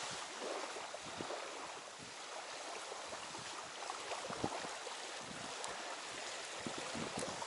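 Steady wind noise, with a few faint handling knocks.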